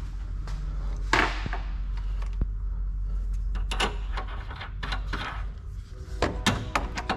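Sharp knocks and clinks of hand tools and bolt hardware being handled during car rear-suspension work. The loudest knock comes about a second in, with a cluster of lighter clinks around the middle and more near the end, over a steady low hum.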